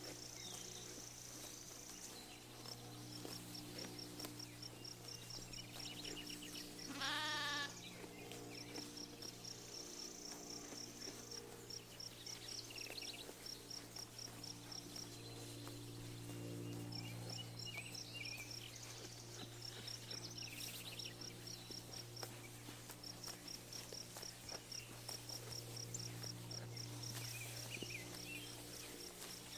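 A sheep bleats once, loud and wavering, about seven seconds in. Birds chirp in quick, evenly spaced series throughout.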